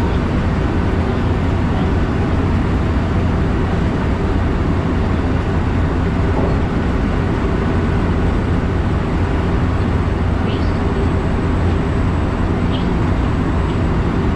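Steady running noise of an electric commuter train at speed, a low, even rumble of wheels on rail, heard inside the carriage.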